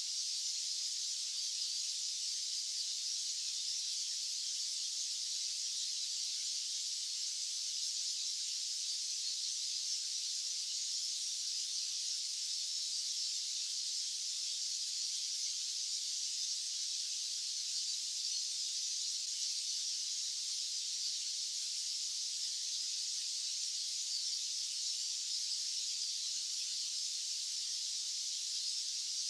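Steady white-noise hiss, high-pitched and unchanging, with no low rumble beneath it.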